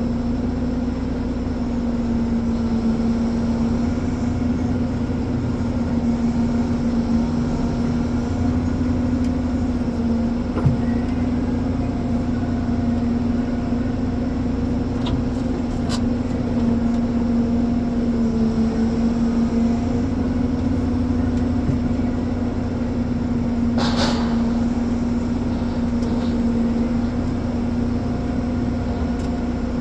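Ponsse Elephant forwarder's diesel engine running steadily with an even droning hum. A brief sharp click or knock comes about 24 seconds in.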